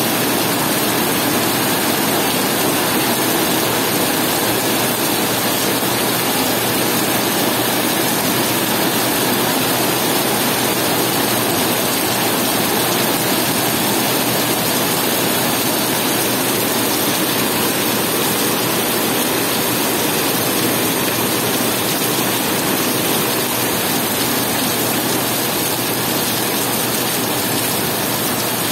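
Heavy rain pouring onto wet asphalt and puddles, a loud, steady, dense hiss of splashing water.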